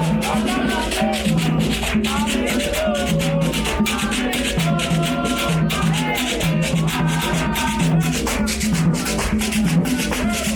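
Candomblé ritual music: quick, steady percussion strokes with voices singing a chant over them.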